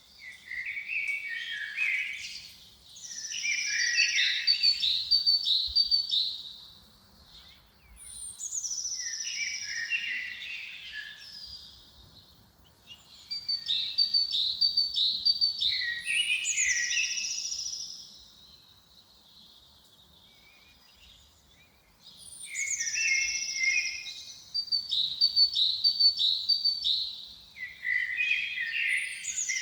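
Songbirds singing in a forest: a phrase that starts with a high note and runs into quick, high chirping notes, repeated about every four seconds with short pauses between, and a longer pause a little past the middle.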